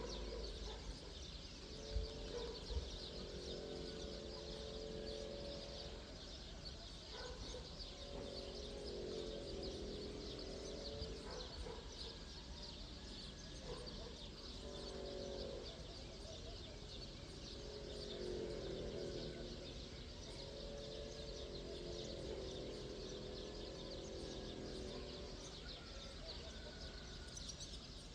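Outdoor morning bird ambience. Low warbling calls of a few seconds each come again and again over a constant haze of high chirping. Two sharp thumps sound about two seconds in.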